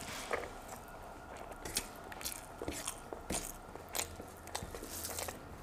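Close-up eating sounds of a mouthful of rice and fried surmai fish being chewed, with irregular sharp crunches and wet mouth clicks several times a second.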